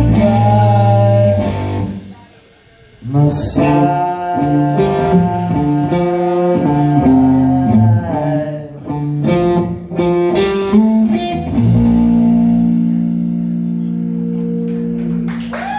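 Live rock band playing the song's instrumental close, led by guitar, with no singing. The music drops away briefly about two seconds in, picks back up, and ends on a long held chord.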